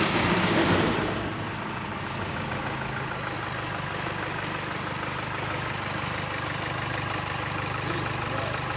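Rebuilt Duramax 2.8 16-valve turbo-diesel four-cylinder engine idling, louder for about the first second and then settling into a steady diesel idle.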